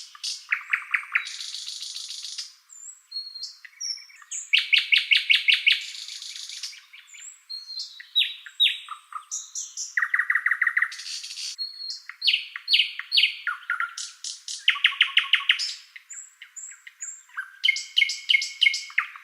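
A songbird singing a long, varied song: quick runs of repeated notes, trills, short whistled slurs and buzzy, hissing phrases, with brief pauses between phrases.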